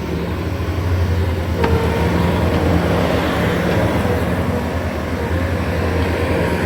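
Bobcat S650 skid steer's diesel engine running steadily with a deep hum while the machine works, with one sharp click about a second and a half in.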